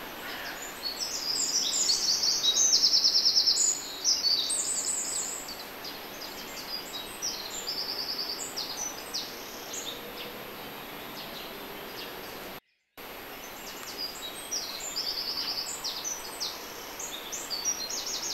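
Small songbird singing high-pitched phrases full of rapid trills, the loudest bout in the first few seconds and more phrases later, over steady outdoor background noise. The sound drops out briefly about two-thirds of the way through.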